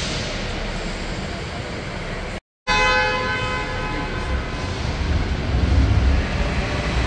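Parking tram running with a steady road and motor noise. After a brief dropout, a pitched horn tone sounds and fades over about a second and a half. A low rumble then builds as the tram gets moving.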